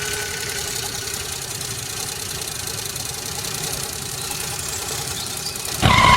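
An engine running steadily with a fast, even knocking rattle, like a small tractor engine at idle. A louder burst comes just before the end.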